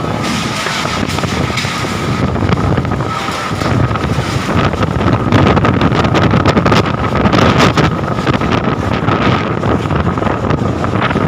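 Wind buffeting the microphone in loud, uneven gusts, with a thin steady high tone running underneath.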